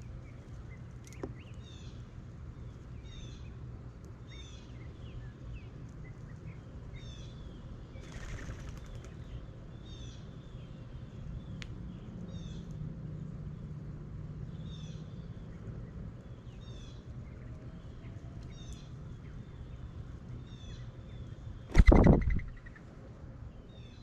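Small birds chirping, short notes repeating about once a second, with a brief flutter of wings. Near the end a single loud thump: a blue jay landing on the camera's mounting tube.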